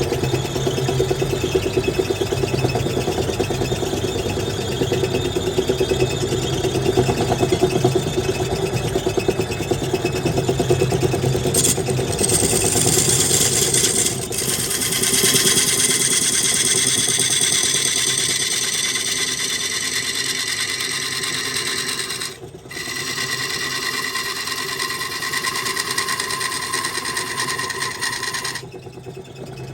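Wood lathe running with a steady motor hum. About halfway through, a turning tool meets the spinning wood and adds a steady high-pitched whine, broken off briefly twice near the end.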